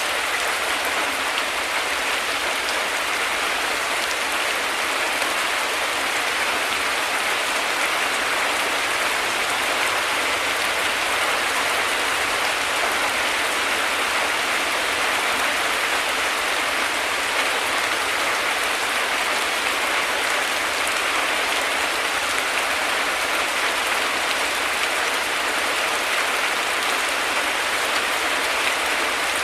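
Heavy rain falling steadily, a dense, even hiss of drops with no break or thunder.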